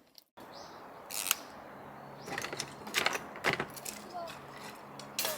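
A few sharp clinks and knocks of hard objects being handled, over faint voices.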